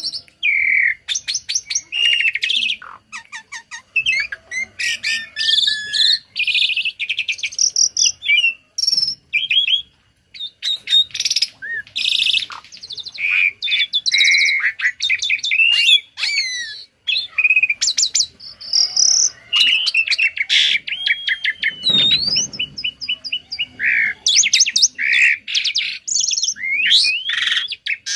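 Tame starling (jalak) singing a fast, varied medley of chirps, whistles, rapid trills and sliding notes with almost no pauses, its song filled with phrases copied from other birds.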